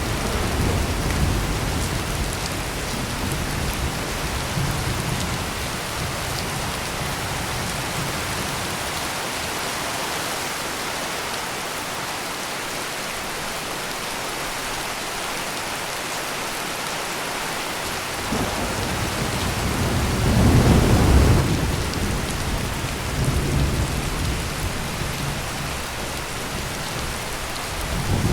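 Heavy rain pouring steadily with rolling thunder. The low rumble near the start dies away, then returns about two-thirds of the way in with its loudest roll.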